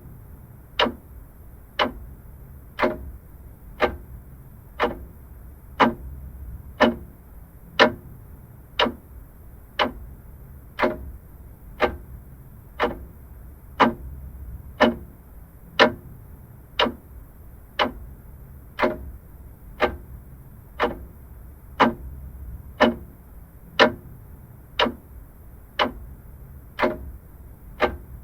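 Vintage clock ticking steadily, about one sharp tick a second.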